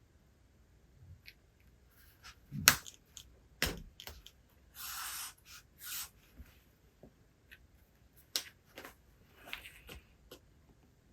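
Handling of a book at a desk: a few sharp taps and knocks, the loudest about two and a half seconds in, and two short papery swishes of pages being turned around the middle, then more light taps near the end.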